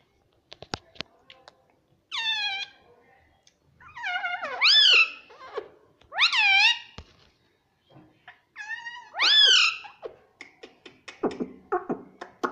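Pet parrot giving about four drawn-out, meow-like calls that rise and then fall in pitch. Sharp clicks come in between, and a quick run of clicks near the end.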